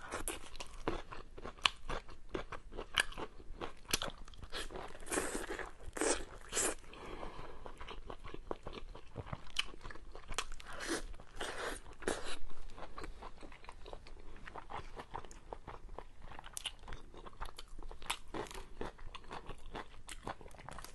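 Close-miked chewing of tender braised pork belly: irregular lip smacks and small sharp mouth clicks.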